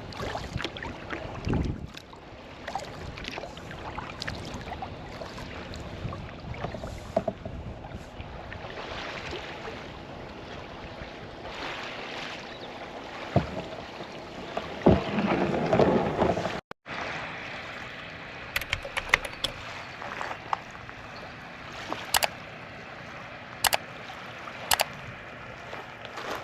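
Kayak on open water: paddle strokes splashing and water sloshing against the hull in uneven surges. The sound breaks off briefly about two-thirds of the way through, and a few sharp knocks come near the end.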